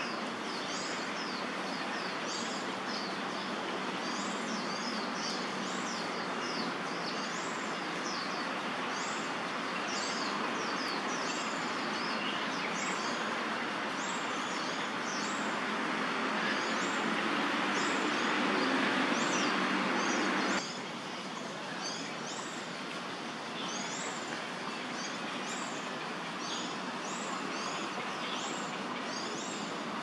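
A bird calling over and over, short high notes falling in pitch, one or two a second, over steady background noise that drops suddenly about two-thirds of the way through.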